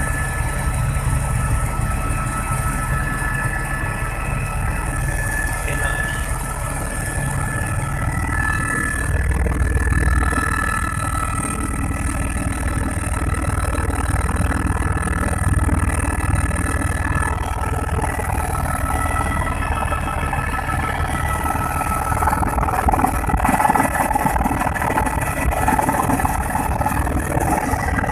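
Helicopter running: a steady low rotor rumble with a high, even turbine whine over it.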